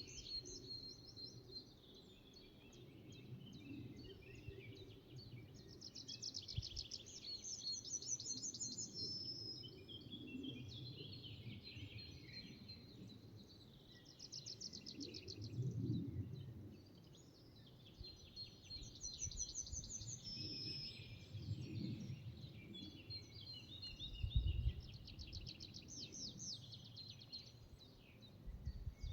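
Forest birdsong: several songbirds singing, with fast repeated trills every few seconds, over a low rumble that swells now and then.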